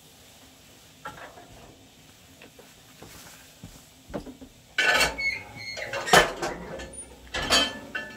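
Hard objects being handled: a knock about a second in, then a run of clanks and clatter from about four seconds, some with short metallic ringing.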